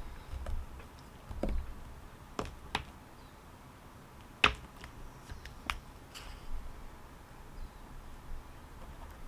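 A few scattered light clicks and taps, the sharpest about four and a half seconds in, over a faint low hum.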